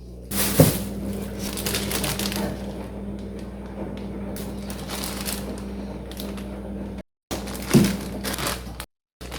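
Plastic bags crinkling and rustling as vegetables are handled, busiest in the first few seconds, with a single knock about half a second in. A steady low hum runs underneath, and the sound drops out briefly twice near the end.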